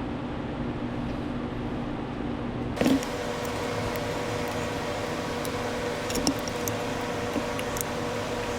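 Heat gun blowing steadily with a fan hiss and hum. About three seconds in there is a knock, after which the hiss is brighter, with a few small clicks later on.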